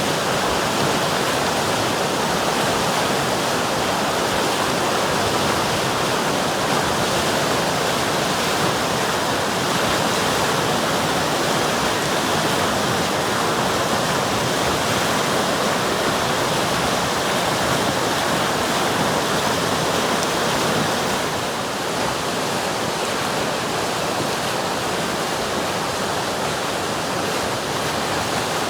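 River water rushing and splashing over rocks in a steady rush of noise, slightly quieter from about three-quarters of the way through.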